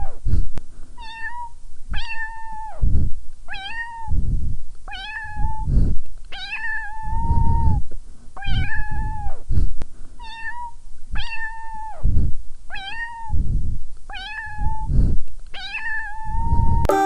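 A domestic cat meowing over and over, about one meow a second. Each call is short, sliding down at the start and then holding a steady pitch.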